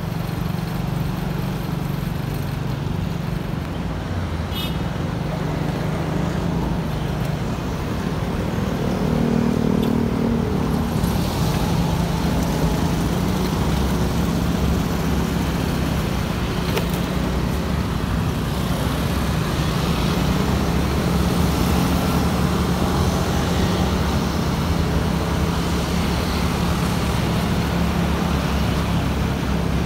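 Motorcycle engine running steadily while riding, with wind and road noise over it. The engine note rises briefly about nine seconds in.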